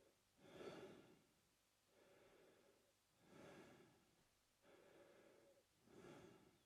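A man breathing slowly and quietly through his mouth in a steady rhythm. A louder, airier breath alternates with a softer one, one full in-and-out cycle every two to three seconds.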